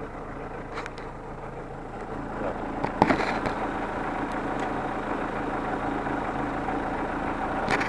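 A worn, warmed-up car engine idling steadily, its hydraulic lifters tapping faintly. About three seconds in there is a sharp snap, with a few lighter clicks around it, as the plastic cap of an oil-additive bottle is opened by hand.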